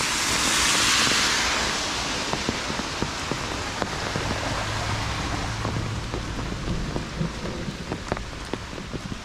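Heavy rain falling on hard ground, a steady hiss with many close drop ticks. The hiss swells louder over the first two seconds, then settles back.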